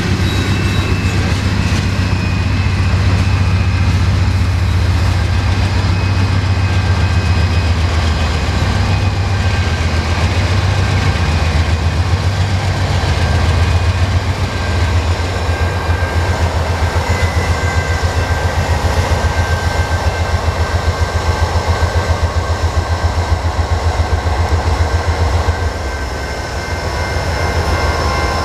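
Freight train rolling over a level crossing: a steady low rumble and wheel clatter of loaded hopper cars, then a Canadian Pacific GE ES44AC diesel locomotive going by about halfway through. The crossing's General Signal Type 2 electronic bell rings over the train noise.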